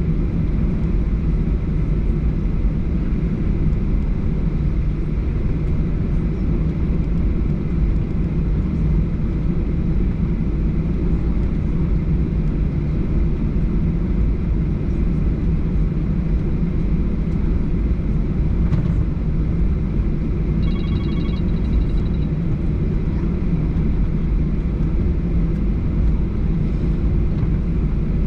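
Steady low rumble of a Boeing 737-800's CFM56 engines and airflow inside the cabin. A short faint electronic tone sounds about three quarters of the way through.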